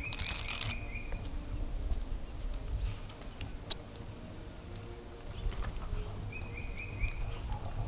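Wild songbirds calling around a feeder: a short rapid trill of repeated notes at the start and again near the end, and two sharp, high chirps a little under two seconds apart in the middle, which are the loudest sounds. A low rumble runs underneath.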